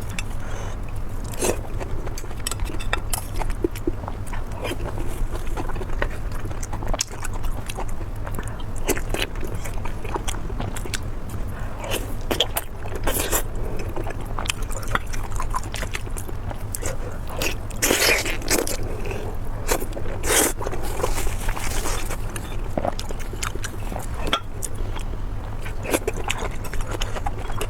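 Close-miked eating: a person biting and chewing food, with many short crunches, smacks and scraping clicks, over a steady low hum.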